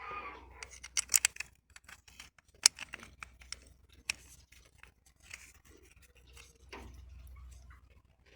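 Scattered sharp clicks and light knocks, like small hard parts or tools being handled. A quick cluster of louder clicks comes about a second in, and a single sharp one near three seconds.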